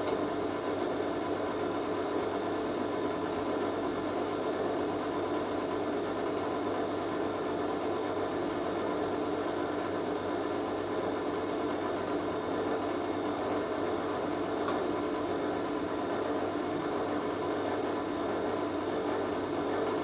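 Hoover A3060 Electronic 1100 front-loading washing machine running steadily at a low spin speed, its drum and motor making an even hum. The load is slightly unbalanced.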